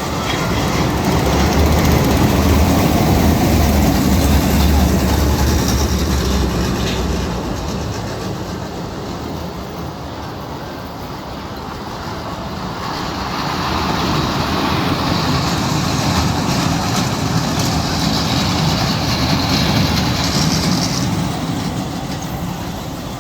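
Small novelty 'frog train' running on its track, a continuous rumble that swells twice as it comes close and moves away.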